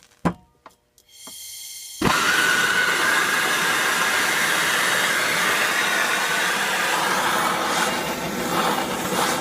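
Electric heat gun switched on: a click, a quieter start about a second in, then about two seconds in it steps up to a loud, steady blowing with a high whine, heating a stuck flywheel hub to loosen it.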